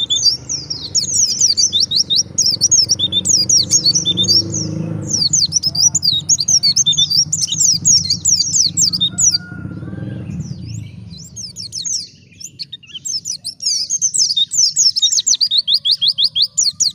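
White-eye (pleci) singing a rapid, high chattering song in long runs of quick notes, with brief pauses about five and about eleven seconds in.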